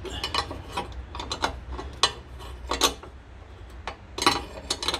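Irregular metallic clicks and clinks, some in short quick runs, from a hand wrench working a loose bolt in a car's front suspension, with a low steady hum underneath. The bolt was loose enough to make the front suspension knock.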